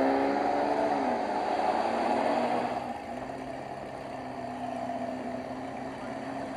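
Car engine sound: revs falling off in the first second, then settling into a steady idle that is quieter from about three seconds in.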